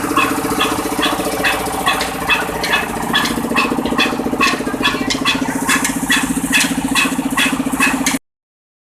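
Kala 22 HP slow-speed diesel oil engine, rated at 275 RPM, running steadily: a constant hum with an even beat of about two and a half knocks a second. The sound cuts off abruptly near the end.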